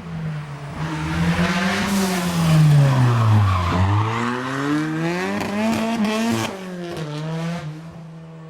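A rally car going past at speed: the engine revs drop as it slows for the corner, then climb again as it accelerates away and shifts up, with loud tyre noise as it comes through.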